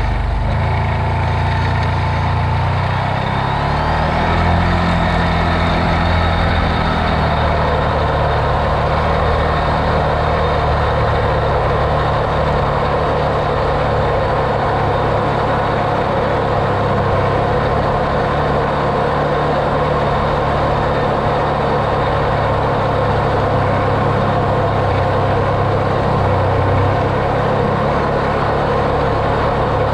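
Off-road vehicle's engine running as it drives, its note shifting over the first several seconds and then holding steady.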